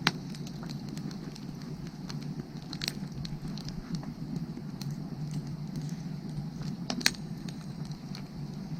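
Wood fire crackling with many small ticks, and two sharp pops: one at the very start and one about seven seconds in.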